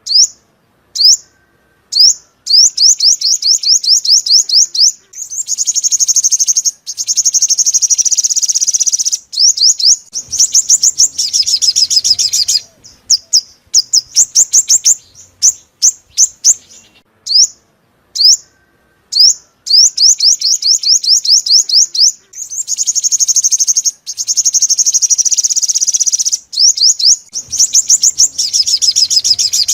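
Olive-backed sunbird song: fast runs of high, thin down-slurred notes, about eight a second, broken by denser buzzy twittering passages, the same phrase sequence repeating about every eighteen seconds as a looped lure call.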